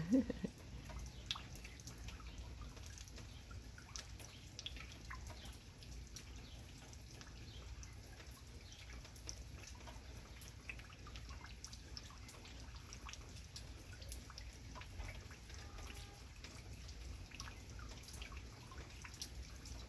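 Rain dripping and pattering: irregular small drops hitting surfaces, over a faint steady low rumble.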